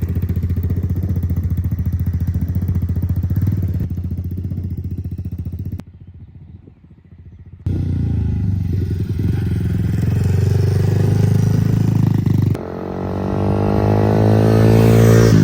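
Dirt bike engine running at low throttle with a steady, even note. About six seconds in it drops away suddenly for a couple of seconds, then comes back, and near the end it revs up with a rising pitch.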